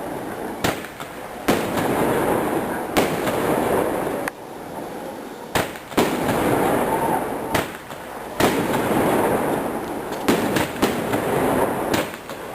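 A 19-shot 'Tuono Rampante' firework battery firing: about a dozen sharp bangs at uneven intervals of half a second to two seconds, with steady hissing and crackling between them.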